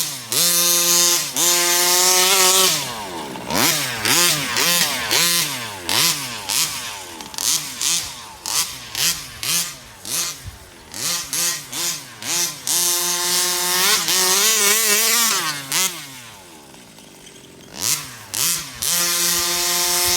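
TMR Performance ported 36cc two-stroke engine in an RC truck revving hard, then blipped on and off the throttle in a string of short bursts with the pitch rising and falling each time. It drops to a low, quiet idle for about two seconds near the end, then revs up again.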